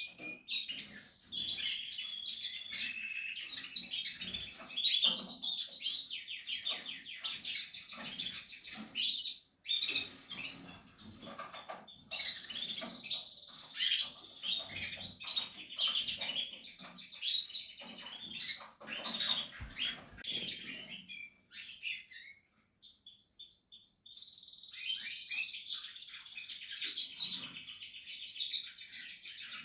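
Portuguese harlequin canaries chirping and twittering in quick trills, mixed with light knocks and rustles. The birds go quiet briefly about three quarters of the way through, then start again.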